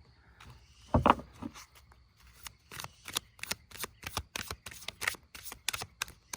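Tarot deck being shuffled by hand: a quick run of short card slaps and clicks, about three or four a second, starting a couple of seconds in, after one louder knock about a second in.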